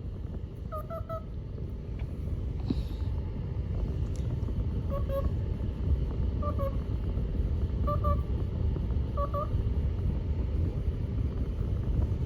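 Indian ringneck parrot giving short, soft honking notes, mostly in quick pairs, repeated every second or two over a steady low rumble.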